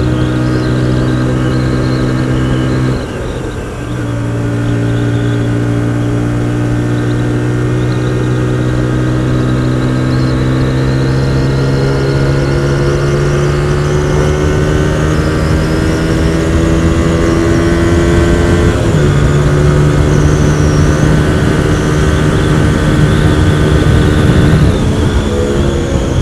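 Hyosung GT125R's 125 cc V-twin engine running under way. The drive breaks about three seconds in for a gear change, then the pitch climbs slowly as the bike gains speed. A second upshift about two-thirds through drops the pitch again, and the engine eases off near the end.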